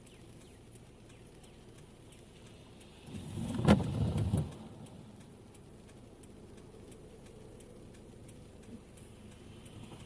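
Car driving on a wet road, heard from inside the cabin as a low, steady road noise with faint regular ticking. About four seconds in comes a single sharp knock with a brief low rumble, the loudest sound.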